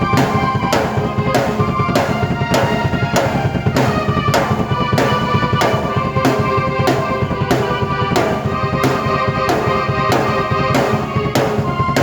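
Drum kit and keyboard played together by one performer: a steady beat of strong drum hits a little under twice a second, under held keyboard notes and a melody line.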